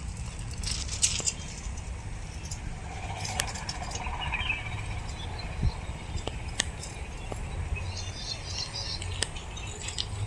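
Faint high bird chirps, a few notes about four seconds in and a short cluster near the end, over a steady low rumble and scattered clicks.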